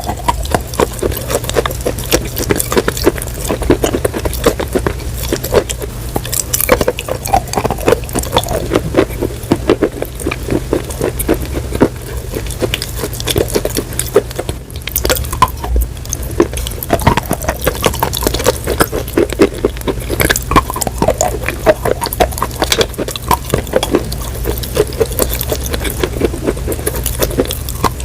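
Close-miked crunching and chewing of crunchy food: a dense, continuous run of sharp little cracks over a steady low hum.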